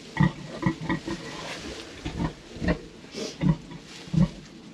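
Sow that has just farrowed, grunting in a string of short, low grunts, about two a second.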